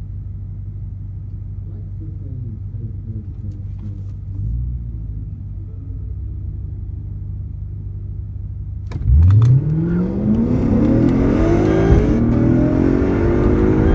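Lexus V8 drag cars idling with a low steady rumble for about nine seconds. Then they launch: the engines suddenly get much louder and climb steeply in pitch under full-throttle acceleration.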